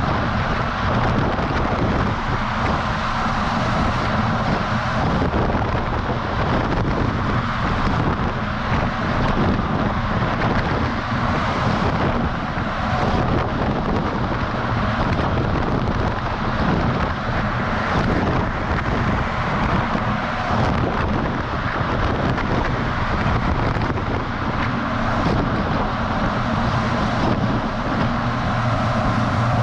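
Wind rushing over a camera mounted on the outside of a moving DAF XF semi-truck, over the steady noise of the truck driving on the road.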